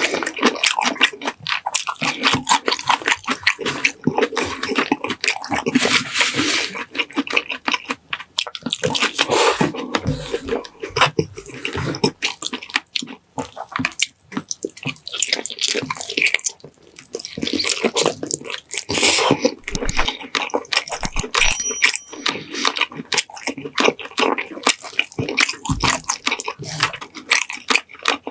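Close-miked mukbang eating of pininyahang manok, a saucy chicken-and-pineapple dish: wet chewing, lip smacking and slurping in quick, irregular clicks.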